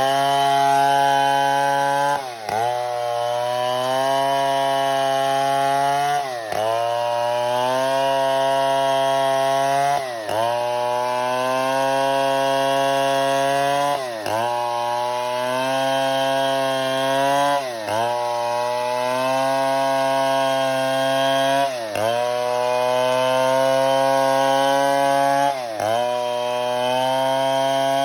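Stihl 070 two-stroke chainsaw running at high revs while cutting wood. Its engine note drops sharply and climbs straight back about every four seconds.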